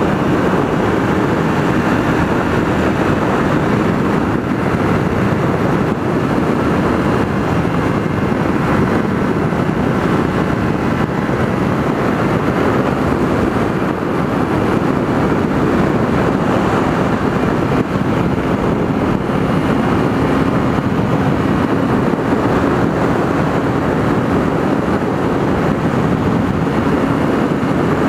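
Onboard sound of a Kawasaki Ninja 300 riding at a steady cruising speed: loud, steady wind rush over the microphone with the parallel-twin engine droning underneath. A steady engine hum comes through more clearly in the second half.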